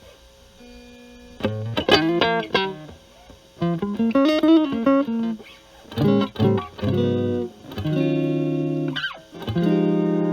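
Electric guitar with single-coil pickups played through a Metal Pedals Rawhide overdrive pedal set at moderate gain, into a Marshall Valvestate amp's clean channel. A held chord is cut off, then short phrases of single notes come with pauses between them. A quick slide leads into a chord left ringing near the end.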